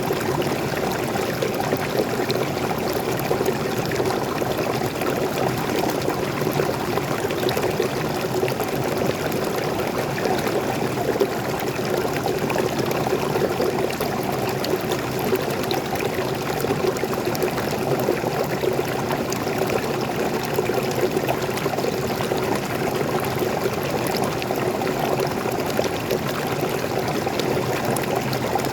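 Water falling and flowing in a steady, unbroken rush, like a small forest waterfall pouring into a stream.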